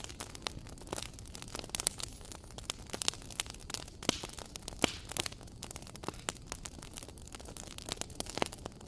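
Wood fire in a fireplace crackling, with frequent irregular sharp pops and snaps over a low steady hiss; a few louder pops stand out, two in the middle and one near the end.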